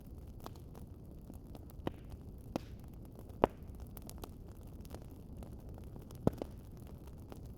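Wood fire crackling in a fireplace: a steady low rumble of burning with scattered sharp pops, the loudest about three and a half seconds in and a quick pair about six seconds in.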